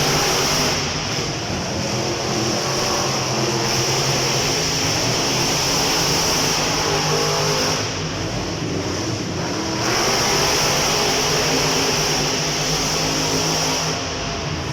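Monster truck engines running and revving, a loud steady drone that eases for about two seconds around eight seconds in.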